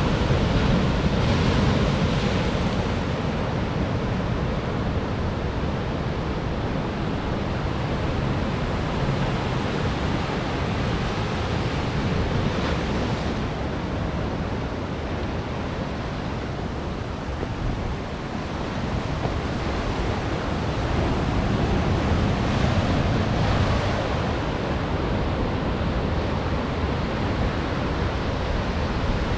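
Ocean waves breaking on rocks: a continuous rushing surf that swells louder near the start and again about two-thirds of the way through.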